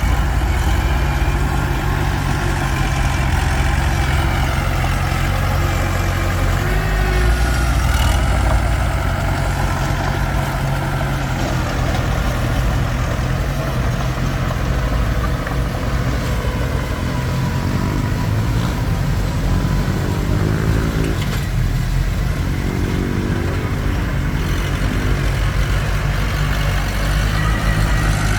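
Komatsu D21P bulldozer's diesel engine running steadily, its pitch drifting up and down a little as it works, with a couple of brief knocks.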